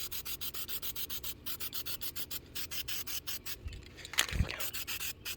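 Aerosol spray paint can being shaken hard, its mixing ball rattling in a fast, even run of about eight to ten strokes a second with a few short breaks. There is a low thump about four seconds in.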